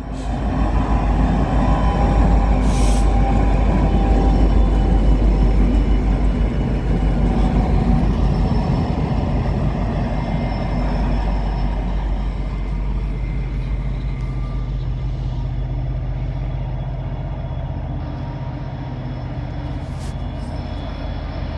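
Norfolk Southern diesel locomotive hauling a single passenger car passing close by: a loud engine rumble with wheels running on the rails, loudest in the first several seconds, then slowly fading as the train draws away.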